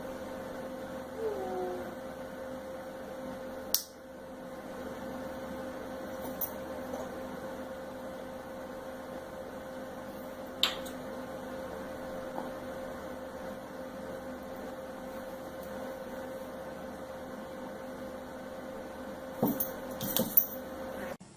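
A steady, even hum, with a few sharp clicks or knocks through it, the loudest cluster near the end.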